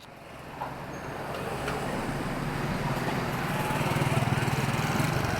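Street traffic: a motor vehicle's engine coming closer, growing steadily louder and loudest about four seconds in.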